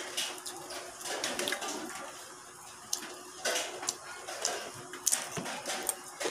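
Close-up wet eating sounds: chewing and lip-smacking of boiled pork intestine eaten by hand with rice, with a string of sharp wet clicks, the loudest about three seconds in and again near the end.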